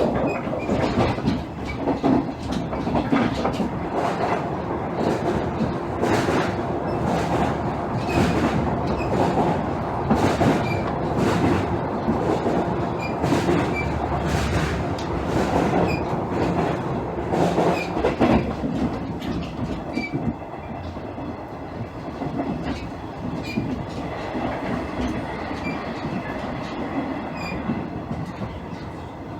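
Running sound inside a JR East KiHa 110 series diesel railcar (KiHa 112-103): the diesel engine drones under rail noise, with wheels clicking over rail joints at a steady rhythm. The sound eases somewhat after about twenty seconds.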